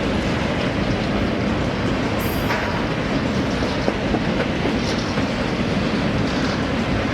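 Freight train passing close by, a steady loud rumble and rattle of wagons rolling over the rails, with a brief high wheel squeak about two seconds in.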